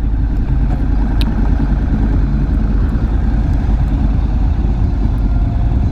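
Honda NC700X parallel-twin motorcycle engine running steadily and low, with one short high chirp about a second in.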